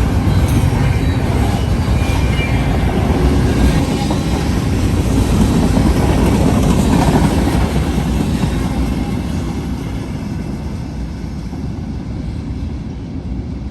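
Freight train rolling past, steel wheels running on the rails with a dense rumble that eases off over the last few seconds.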